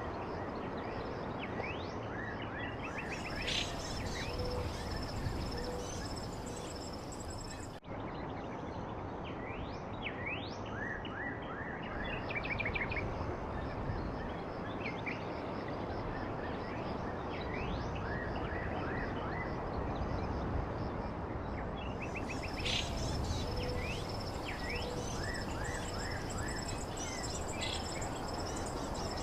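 Songbirds chirping in short, quick rising and falling notes over a steady rushing background noise. A thin, steady high-pitched buzz, like insects, comes in at times.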